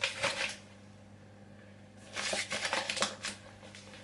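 Two short bursts of rustling and light clicking as baking ingredients are handled and measured out, the second a little over two seconds in and lasting about a second, over a faint steady hum.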